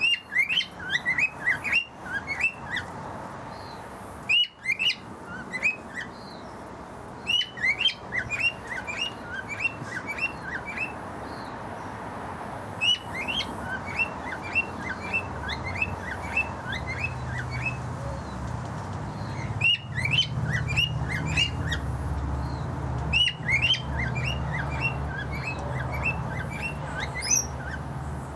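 Male cockatiel singing: runs of short, quick chirps, several a second, with brief pauses between runs. A low, steady hum comes in about halfway through.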